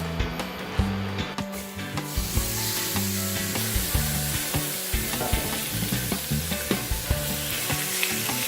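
Spiced chicken breast browning in a hot pan: a frying sizzle that comes in about two seconds in and then holds steady, with a few light clicks.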